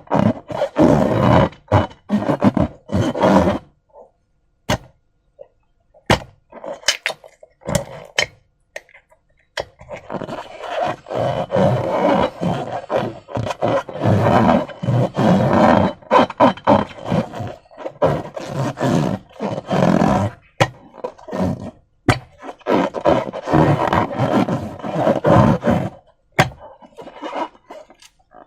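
Slime being squeezed and worked by hand, making wet, sticky squelching in irregular bursts. It goes sparse and quieter for a few seconds after the start, with a few sharp clicks, then picks up again.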